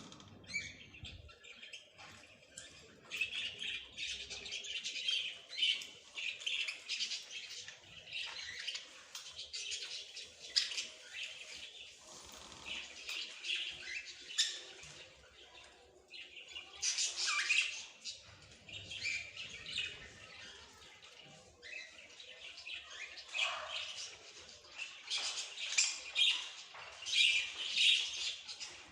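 Small songbirds chirping and twittering in a dense, rapid stream of high chirps, with louder bursts of song partway through and near the end.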